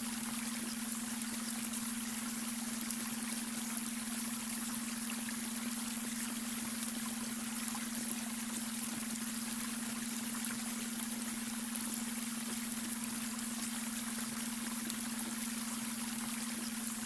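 Babbling brook: water running and trickling steadily over stones, with a steady low tone underneath, the beta-wave brainwave tone mixed into the water sound.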